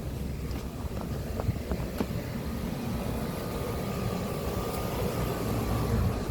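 Outdoor air conditioner condenser units running: a steady low hum and fan rush that grows gradually louder, with a faint steady whine joining about halfway through and a few light footstep ticks early on.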